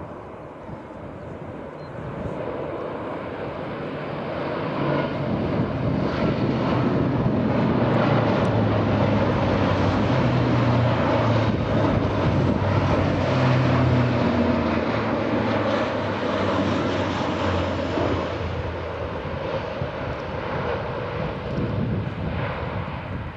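Fixed-wing military aircraft flying over with a steady engine drone. It grows louder over the first several seconds, is loudest from about eight to fourteen seconds in, then slowly fades.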